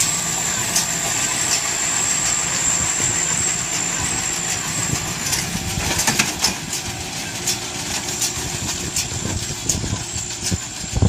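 Tractor-drawn baler running, with a steady engine drone, a high whine and a regular sharp clack about every 0.8 s; the clacks become busier and less even later on.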